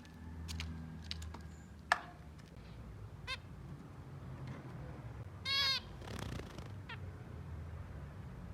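Zebra finches calling: a few short nasal call notes, the loudest a longer one about five and a half seconds in, over a low steady hum.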